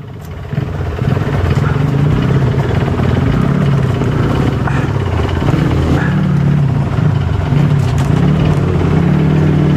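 Trail motorcycle engine running under throttle, its pitch rising and falling over and over as the rider blips the throttle over rough ground; it is quieter for the first moment, then picks up.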